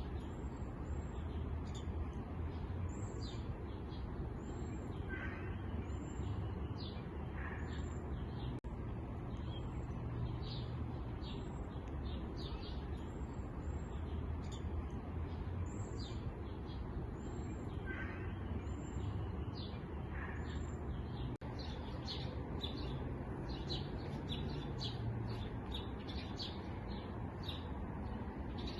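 Small songbirds chirping continuously: many short, high chirps and hooked whistled notes overlapping one another, over a steady low rumble.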